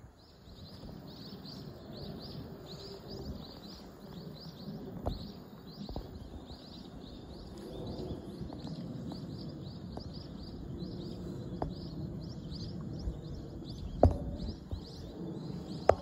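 A bird calling in a steady series of short, high, falling chirps, about two a second, over a low steady background rumble. A few soft knocks, the loudest about fourteen seconds in.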